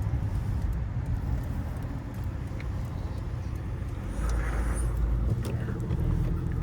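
Car engine running with a steady low rumble, getting louder about four seconds in.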